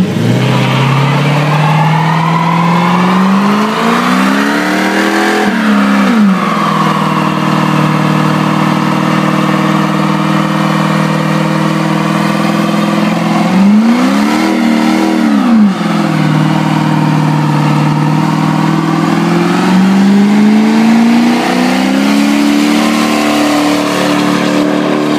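Lexus LS400's 4.0-litre 1UZ-FE V8 with its exhaust cut open, held at high revs through a burnout with the rear tyres spinning. The revs climb at the start, drop and pick up again twice, about six and fifteen seconds in, and rise once more near the end.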